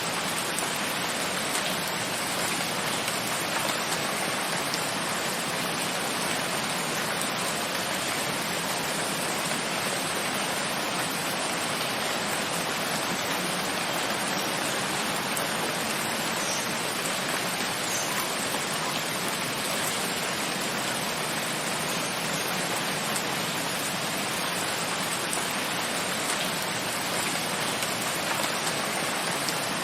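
Steady rain: an even, unbroken hiss that does not change.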